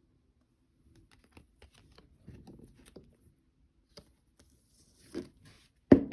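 Trading cards and pack wrappers being handled on a table: faint rustling, crinkling and small ticks, then a sharp knock near the end.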